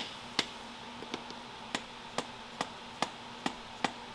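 Hand hammer striking metal in a steady series of sharp blows, about two a second, the first one loudest, pounding on a stuck truck suspension part that will not come out.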